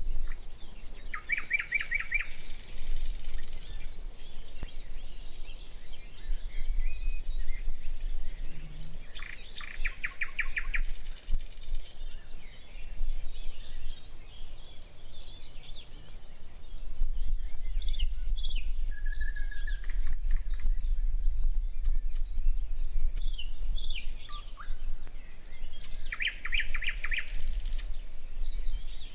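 Wild birds singing and calling: a rapid trill repeats several times, with higher thin trills and short whistles between, over a steady low rumble.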